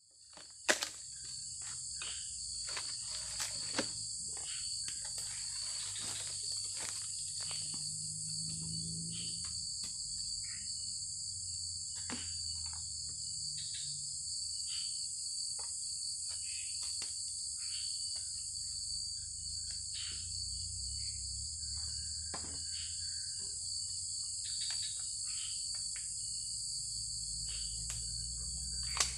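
Steady, dense chorus of crickets and other insects chirring in the forest, coming in suddenly at the start, with scattered small clicks and taps over it and a sharper click about a second in.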